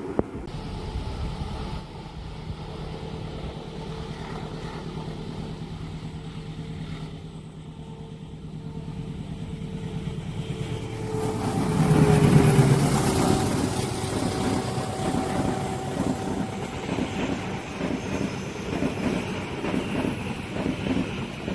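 Diesel passenger train passing a level crossing. The locomotive's engine hum builds and drops in pitch as it goes by about twelve seconds in, then comes a rapid rhythmic clatter of wheels over the rail joints as the carriages follow.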